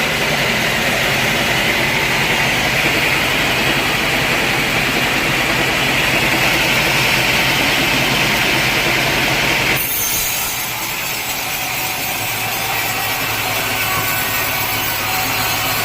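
Sawmill saw cutting through a large teak log: a steady, loud rasping cut over the hum of the machine's motor. About ten seconds in the sound changes abruptly and becomes thinner and hissier.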